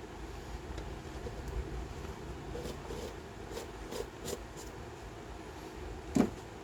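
Steady low mechanical hum with a few light clicks through the middle and one sharp knock near the end.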